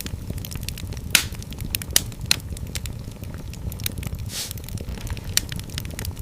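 Wood fire in a fireplace crackling over a low, steady rumble of flames. Sharp pops come at about one second, two seconds and just after, and there is a brief hiss about four seconds in.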